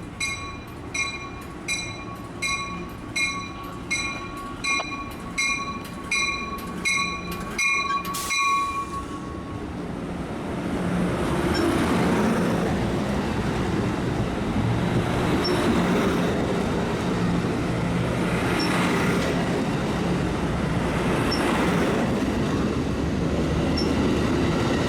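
A warning bell rings evenly, about one and a half strokes a second, then stops about eight seconds in. A passenger train then rolls past with a steady, louder rumble of engine and wheels on rail.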